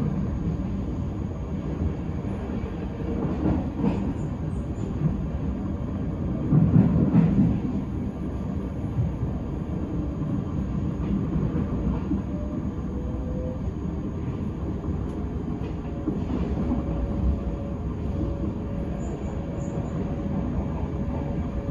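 Regional express train running at speed, heard from inside the carriage: a steady rumble of wheels on track. It swells louder about seven seconds in, and a faint steady whine joins it in the second half.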